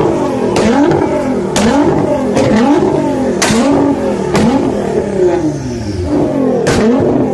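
Sports car engine revved again and again, its pitch climbing and falling about once a second, with several sharp cracks during the revs.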